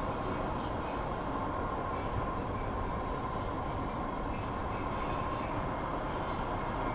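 Interior noise of an MBTA Red Line subway car: a steady rumble with a thin, steady hum running through it.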